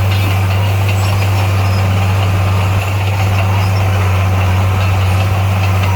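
Heavy diesel engine of construction machinery running steadily, with a constant low hum.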